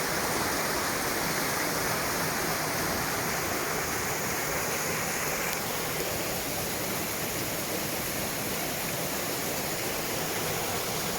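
Steady rush of a rocky river's water falling and tumbling over boulders, at rapids or a small waterfall.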